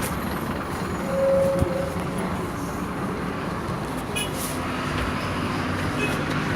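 Scania K230 IB city bus running, a steady engine and road drone, with a brief high squeal about a second in.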